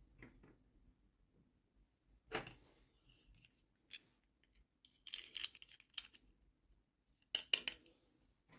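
Small plastic toy pieces and packaging being handled: scattered sharp clicks and short rustles. There is one click about two seconds in, a cluster of them halfway through, and the loudest pair near the end.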